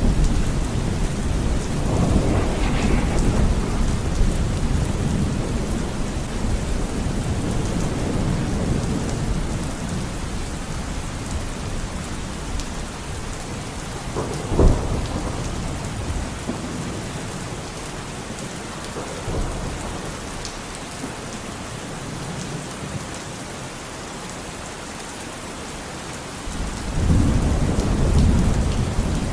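Steady rain falling, with thunder: a low rumble fading away at the start, a single sharp crack about halfway through, and a new roll of thunder building near the end.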